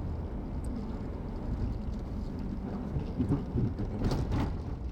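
Steady low rumble of road and engine noise inside a moving car's cabin, with a few brief louder sounds between about three and four and a half seconds in.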